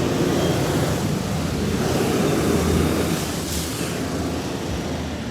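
A bus driving past close by: engine rumble and road noise that swell about two to three seconds in, then ease off.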